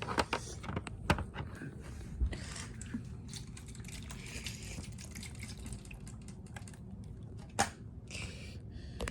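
Water dripping and trickling, with a few sharp clicks and taps of small objects being handled.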